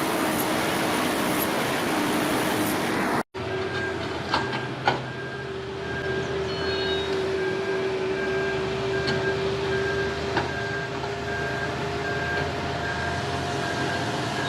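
Heavy vehicle noise, cut off abruptly; then a steady droning tone with a regular high-pitched beeping over it and two short knocks soon after the cut.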